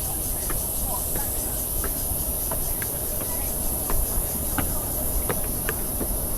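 Outdoor ambience: a steady, high-pitched insect drone over a low rumble, with scattered small clicks.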